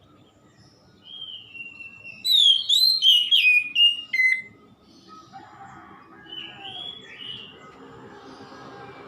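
Oriental magpie-robin singing: a run of loud, clear whistled phrases with rising and falling notes starting about a second in. From about five seconds in, a quieter, busier warble follows.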